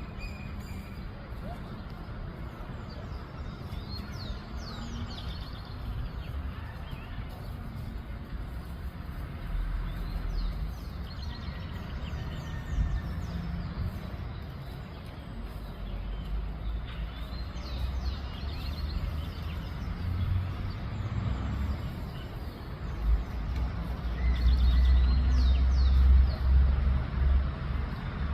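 Birds chirping in short, scattered bursts over a low, uneven rumble that grows louder for the last few seconds.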